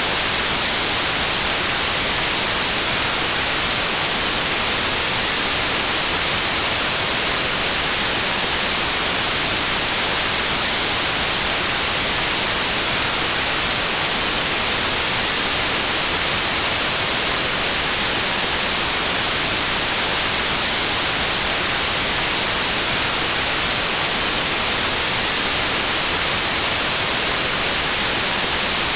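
Steady white noise: an even, unchanging hiss, brightest in the high range, with no drops, tones or breaks.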